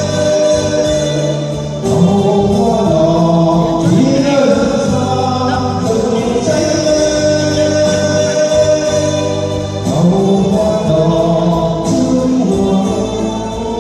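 Choral music: voices singing long held notes over instrumental accompaniment.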